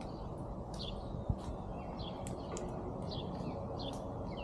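A bird chirping repeatedly in short falling notes over steady low background noise, with a single sharp knock about a second in.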